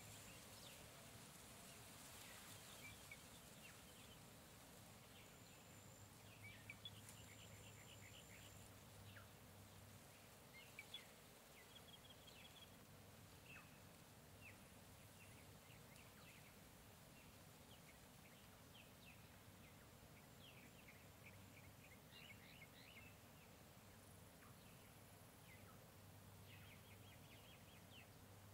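Faint jungle ambience: scattered short bird chirps and calls over a steady hiss, with a few brief thin high whistles in the first several seconds.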